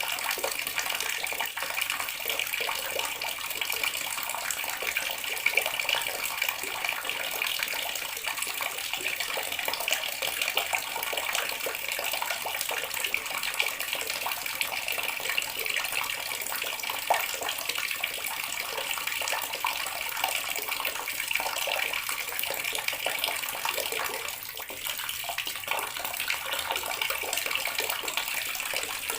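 Water running steadily from a tap, a continuous splashing hiss that eases off slightly for a moment about 24 seconds in.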